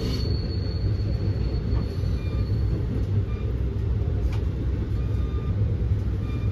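Steady low rumble of a moving passenger train heard from inside the car: wheels running on the rails.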